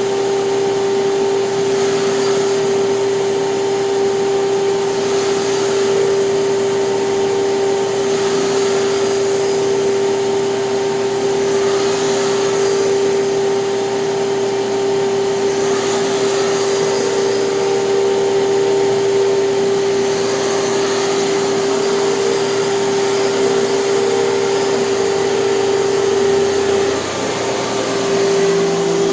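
Hoover canister vacuum running with a power nozzle on carpet: a steady motor whine under a hiss of airflow that swells and fades every few seconds. Near the end the whine briefly drops and shifts pitch.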